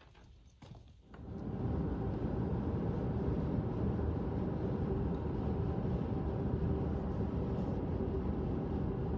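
SUV driving: steady engine and road rumble that starts about a second in, after a few faint clicks.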